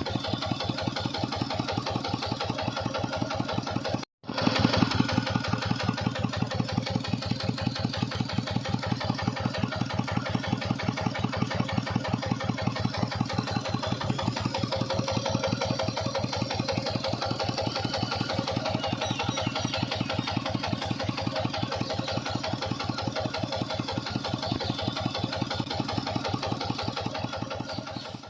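Tractor engine running steadily with an even, rapid beat while driving a water pump. It cuts out briefly about four seconds in and comes back louder.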